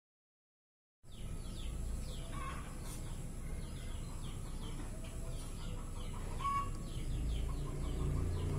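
Many small birds chirping in quick, repeated falling notes over a steady low rumble, with a couple of louder, lower calls. The sound starts about a second in, after silence.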